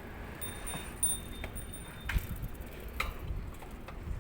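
Steady outdoor background noise with three sharp clicks about a second apart.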